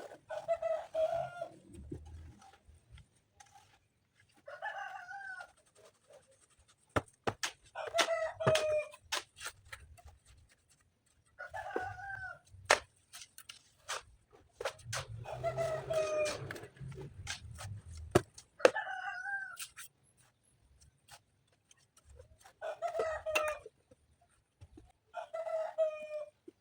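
Chickens calling repeatedly: about eight short crowing or clucking calls a few seconds apart, with several sharp knocks in between.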